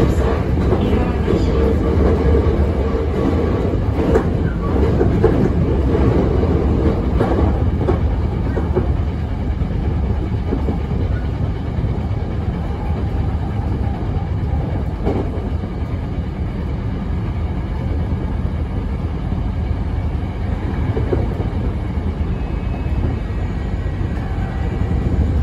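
Running noise heard inside a Hankyu 7300 series electric train car fitted with a Toyo IGBT VVVF inverter: a steady rumble of wheels on rail and traction motors, with a few rail-joint clicks. It is loudest over the first several seconds and eases a little after about eight seconds.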